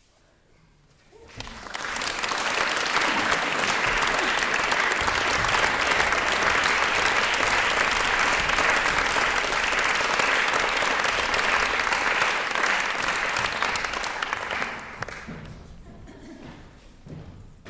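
Audience applauding: it breaks out about a second in, holds steady for roughly thirteen seconds, then dies away near the end.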